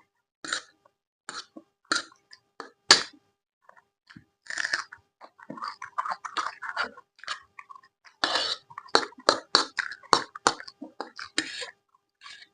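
Close-miked chewing and mouth sounds of someone eating: a run of irregular wet smacks and clicks, denser about halfway and again about two-thirds of the way through.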